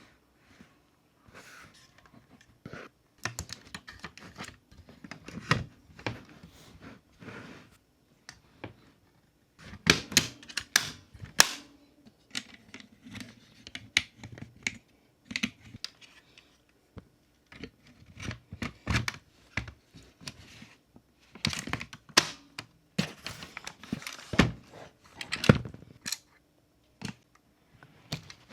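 Irregular clicks, taps and light knocks of small plastic and metal parts of a 1:18 diecast model car being handled and fitted together, coming in uneven clusters.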